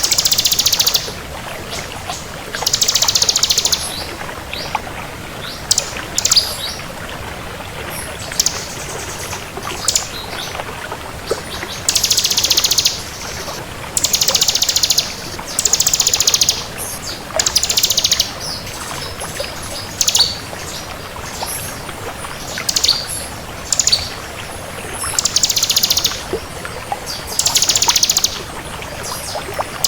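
Bar-winged prinia (ciblek kristal) singing: a rapid, high trill about a second long, repeated every two to three seconds, with short sharp chip notes in between, over a steady background hiss.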